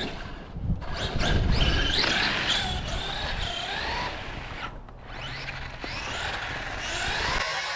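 Traxxas X-Maxx Ultimate RC monster truck's brushless electric motor whining, its pitch rising and falling again and again as the throttle is worked, over a rough low rumble from the truck driving in snow. Music comes in near the end.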